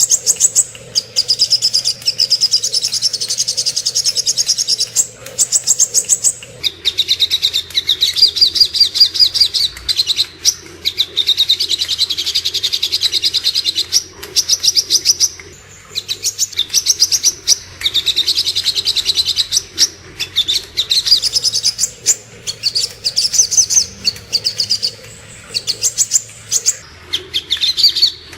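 Sogok ontong (little spiderhunter) song as a songbird-training recording: long runs of rapid, evenly repeated high chirps, broken by short pauses and shifting slightly in pitch from phrase to phrase.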